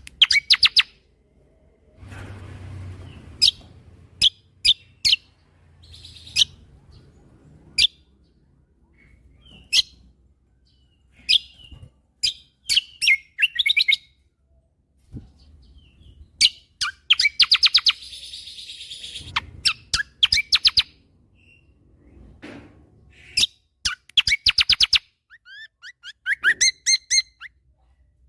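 Kecial kombo (cucak kombo) songbird singing: sharp high chips and fast rattling trills in short volleys, the rapid-fire phrases called tembakan, separated by brief pauses.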